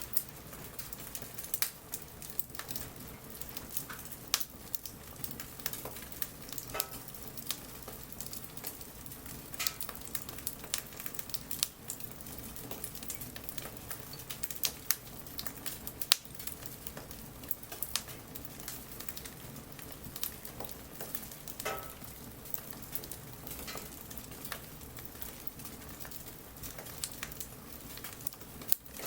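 Wood bonfire crackling, with frequent sharp pops and snaps over a steady hiss, and light rain pattering.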